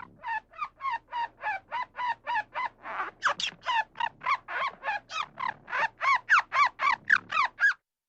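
A bird squawking in a fast, even series of harsh calls, about three a second, that stops suddenly near the end.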